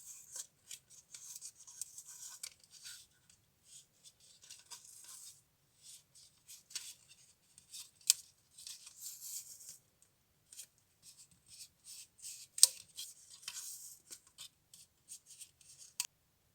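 Close-up handwork on a small model: rubbing and scratching with snips and sharp clicks coming at irregular moments, two of them louder than the rest. It cuts off suddenly just before the end.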